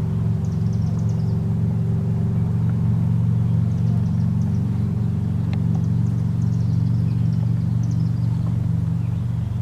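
A steady low engine drone runs throughout, while small birds chirp in short, high, falling trills several times above it.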